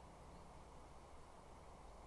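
Near silence: faint, steady background hiss from an outdoor nest-camera microphone.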